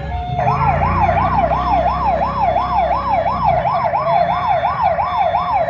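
Electronic police-style siren, a fast wail rising and falling about three times a second, with a low rumble under it for the first half.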